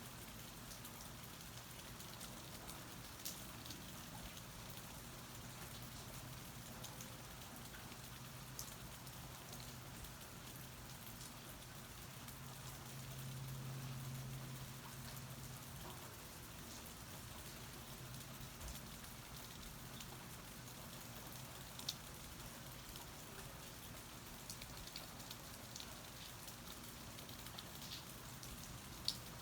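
Steady rain falling, heard from under a porch, with scattered single drops ticking close by. A low hum runs underneath and swells briefly about halfway through.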